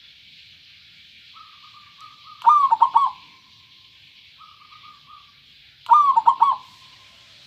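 Zebra dove (perkutut) singing: two loud, rapid cooing phrases about three and a half seconds apart, each preceded by a softer rolling trill, over a faint steady hiss.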